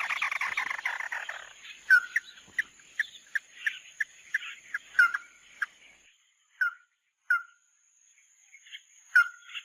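Calls of the bird Vietnamese trappers call 'mắt đỏ' (red-eye). A fast rattling trill about a second and a half long is followed by a series of short, sharp single notes, about two or three a second at first, which then space out with gaps.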